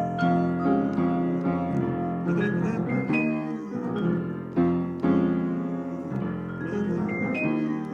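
Jazz piano playing a run of full, sustained chords, each struck anew about once a second or so.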